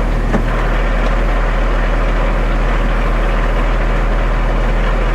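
Concrete mixer truck's diesel engine running steadily at idle with a deep, even hum while the truck crawls along. A single short click comes about half a second in.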